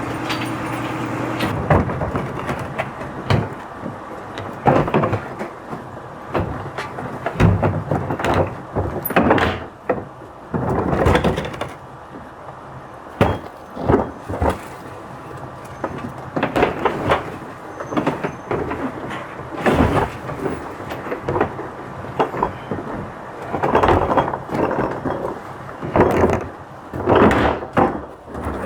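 Recycling truck at work: a run of irregular knocks, clatters and bangs every second or two over the low rumble of the truck, like recyclables, bins and lids banging around during collection.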